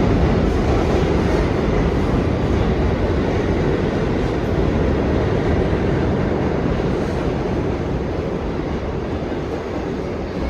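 New York City subway train running through an underground station: steady, loud wheel-on-rail noise that slowly fades over the last few seconds.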